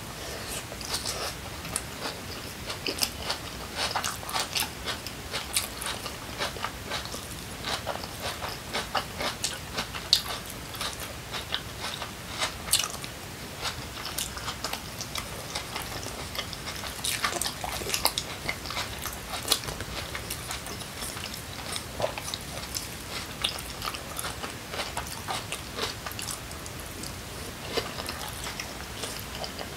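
A person chewing a mouthful of kimchi pancake, with a steady irregular run of small crunches and crackles.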